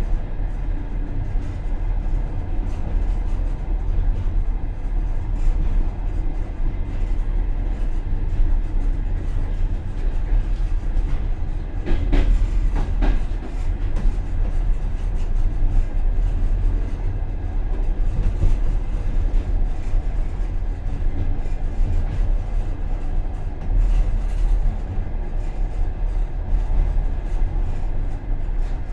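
Passenger coach running on the rails, heard from inside its rear vestibule: a steady low rumble of wheels and car body, with a brief louder clatter about twelve seconds in.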